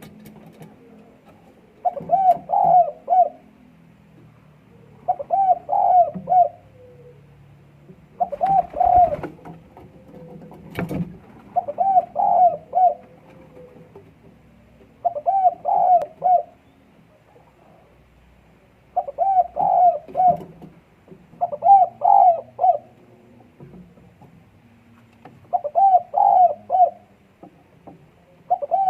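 Puter dove cooing in breeding condition: short phrases of several quick coo notes, repeated every three to four seconds, about eight times. A single sharp click sounds once, about eleven seconds in.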